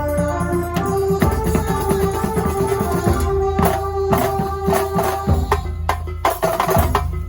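Banyuwangi kuntulan music: drums struck in a dense, fast rhythm over held melodic notes and a deep bass that drops in and out.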